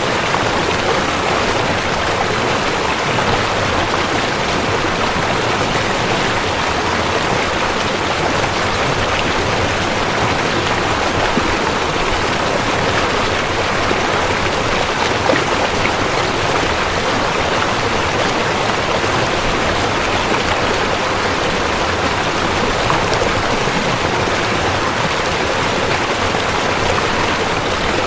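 Rushing river water, a steady, unbroken rush.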